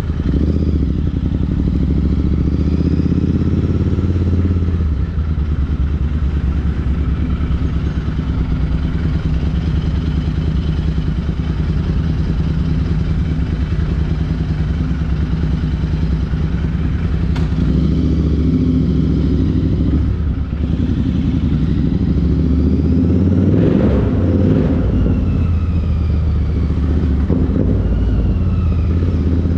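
Royal Enfield Interceptor 650's parallel-twin engine running through an aftermarket Chris Michael exhaust while riding. It pulls hard in the first few seconds, eases to a lighter throttle through the middle, then pulls hard again in the second half.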